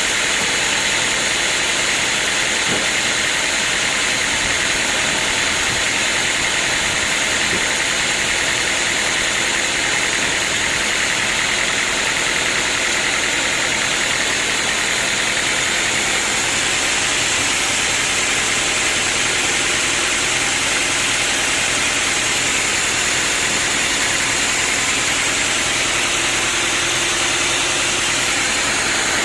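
Sawmill machinery running steadily: a continuous mechanical noise with a strong hiss, unchanging throughout.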